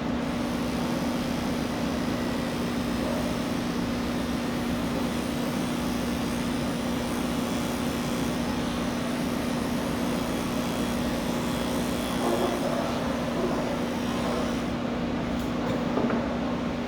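Electric pet grooming clippers running with a steady hum while shaving a cat's coat down.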